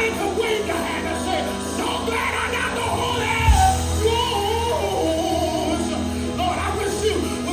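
Live gospel band music during a praise break, with voices shouting and singing over it and a single low thump about three and a half seconds in.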